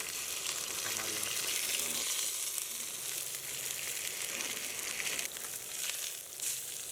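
Meat sizzling in a hot pan over a campfire: a steady frying hiss with scattered small crackles.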